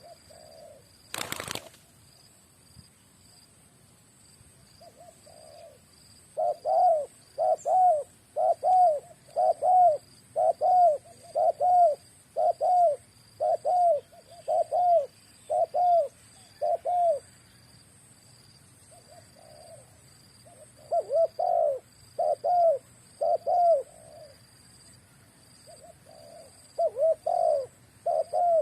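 Spotted dove (terkukur) cooing: runs of short, arched coo notes about one a second, with pauses between runs. A sharp click about a second in.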